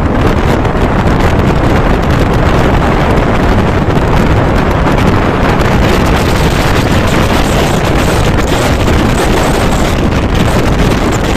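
Wind buffeting the microphone at the open window of a moving passenger train, over the steady running rumble of the coach on the track.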